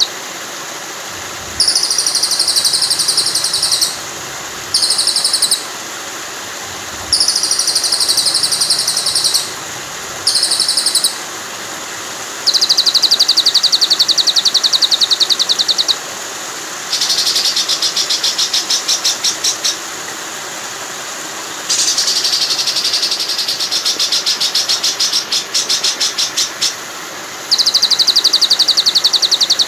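Songbird trills for training a white-rumped shama: about eight bursts of very fast, buzzy, high trilling, each lasting one to five seconds, over a steady rush of flowing water.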